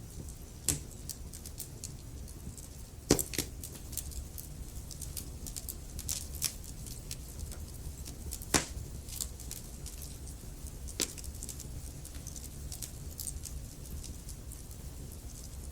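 Wood logs burning in a fireplace: a steady low rumble of flame with scattered sharp crackles and pops, the loudest about three seconds in and again near nine seconds.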